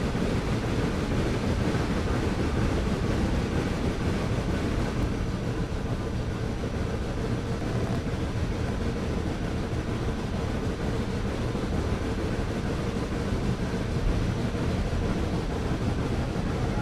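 Steady running noise of a steam-hauled excursion train, heard from aboard: an even rumble and rush with no distinct events.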